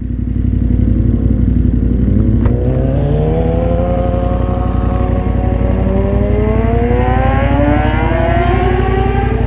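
Motorcycle engines: a steady low idle, over which a motorcycle engine's pitch rises slowly as it accelerates, with a single click about two and a half seconds in.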